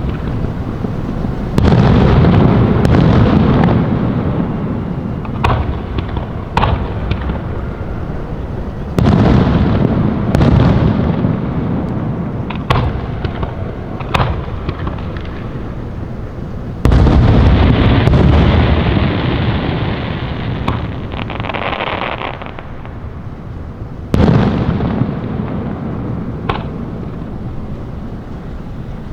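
Aerial fireworks going off: four heavy booms roughly every seven to eight seconds, each a sudden blast trailing into a long rumble that fades over several seconds, with sharper single pops between them.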